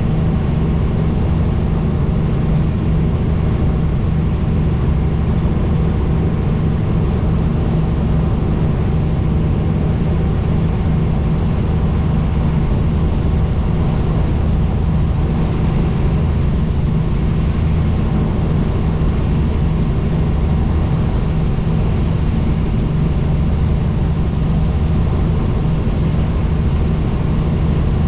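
Helicopter in flight: the steady, unchanging drone of its rotor and turbine engine, heaviest in the low end, with a thin steady whine above it.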